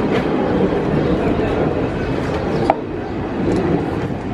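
Passenger train coaches rolling past at close range: a steady, loud rumble of steel wheels on the rails. A single sharp metallic clank rings out briefly about two and a half seconds in.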